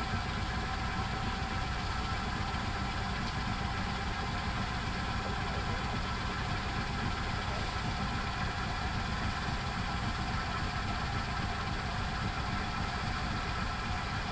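Myford Super 7B lathe running steadily under its inverter-driven motor, the change gears taken out so it runs quieter: an even mechanical hum with a thin high whine.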